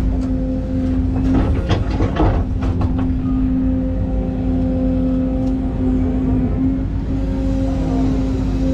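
Excavator's diesel engine and hydraulics running under load while digging, with a steady whine and a few knocks of the bucket in the first three seconds.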